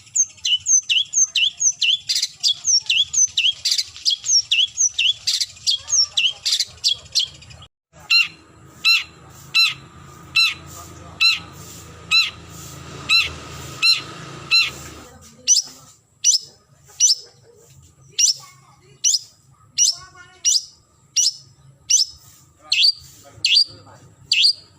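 Long-tailed shrike (cendet) giving its harsh, repeated challenge call to a rival: a long series of sharp, downward-sweeping notes, fast at first (about three a second), then after a brief break near eight seconds slower, about two a second easing to about one a second.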